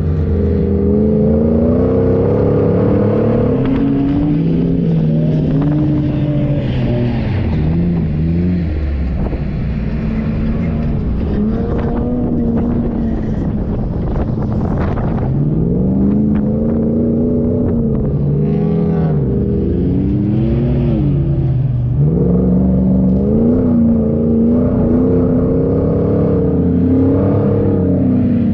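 4x4 engine driven hard off-road, its revs rising and falling every second or two as the throttle changes, over a steady rushing noise.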